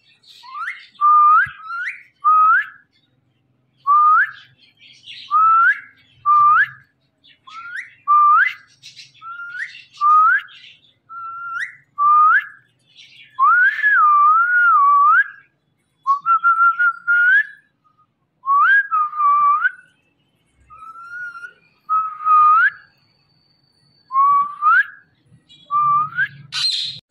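A long series of short clear whistles, roughly one a second, each holding a note and then sliding up quickly at the end. A few notes near the middle waver up and down.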